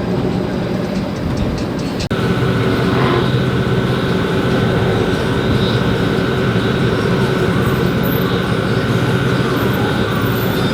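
Truck engine and exhaust rumbling steadily at close range. About two seconds in, a steady high tone joins the rumble and holds.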